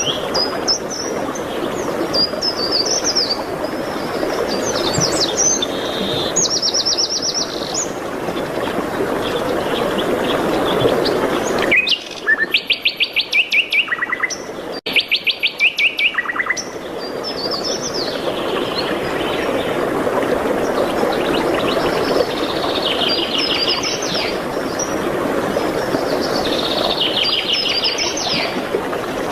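Songbirds singing in short chirps and fast trilled phrases over a steady rushing background. About twelve seconds in the background drops away, and for about four seconds a louder bird sings rapid repeated-note phrases.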